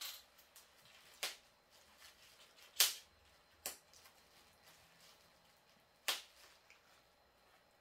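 A handful of sharp, separate clicks and taps of hard objects being handled and set down, the loudest about three seconds in, over quiet room tone.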